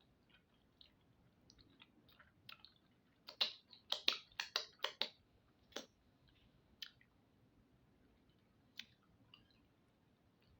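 A person eating close to the microphone: chewing and wet lip smacks, with a quick run of sharp clicks from about three to six seconds in, then a few scattered softer ones.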